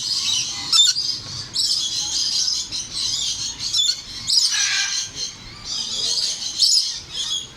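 A flock of parrots chattering, a dense mass of overlapping high-pitched calls with sharp short cries throughout.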